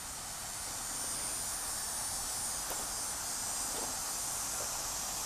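Steady, high-pitched drone of insects chirring, growing slightly louder.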